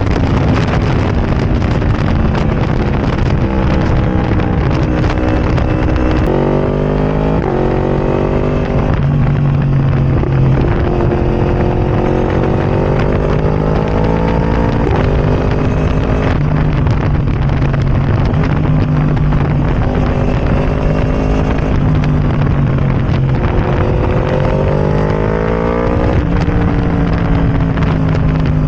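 Yamaha R1's crossplane inline-four running through a decatalysed Arrow Racing exhaust with no baffle, ridden on the road. The engine note climbs under acceleration, drops back at each shift or roll-off, and climbs again several times.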